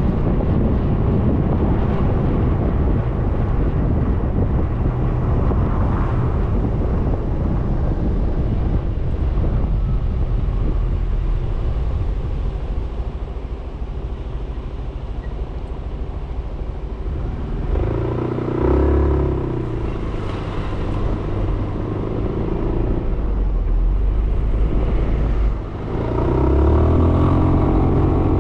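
Wind rushing over the microphone on a moving Suzuki Burgman 400 scooter, with its single-cylinder engine running underneath. About two-thirds through, the engine note rises as the scooter speeds up, and it rises again after a brief dip near the end.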